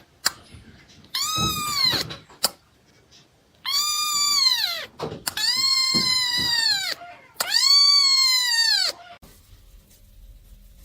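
Cat meowing: four long, drawn-out meows, each rising and then falling in pitch.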